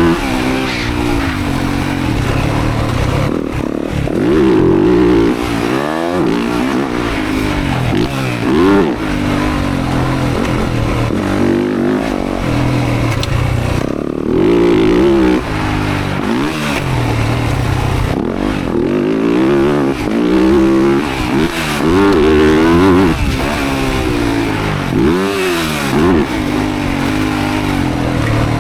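Motocross dirt bike engine revving hard and easing off over and over as it is ridden around the track, its pitch climbing and then dropping every couple of seconds.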